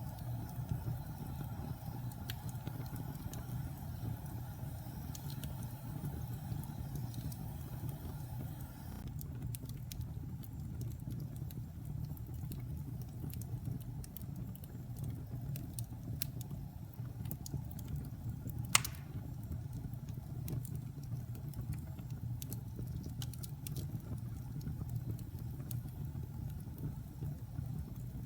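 Fire in a fireplace crackling over a low, steady rumble, with scattered small pops and one sharp, loud pop about two-thirds of the way through.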